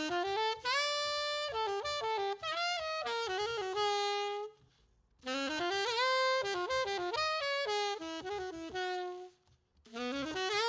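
Unaccompanied jazz alto saxophone playing fast melodic runs in three phrases, each opening with an upward scoop, with short breaks between them.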